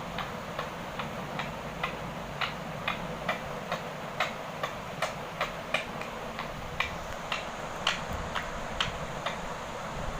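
A steady series of sharp clicks, about two a second and slightly uneven, over a steady background hiss.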